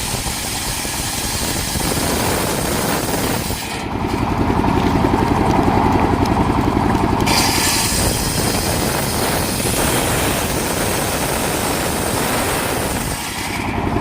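Engine-driven circular saw of a mobile sawmill running steadily. From about four seconds in until shortly before the end it grows louder as the blade cuts through a coconut-palm trunk.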